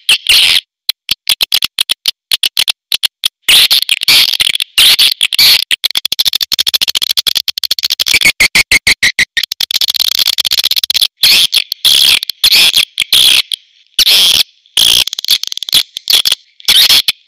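Recorded swiftlet calls: rapid trains of sharp clicks and high twittering chirps, broken by short pauses, with a steadier chirping run about halfway through. This is the looped call sound played from swiftlet houses to lure swiftlets in to roost and nest.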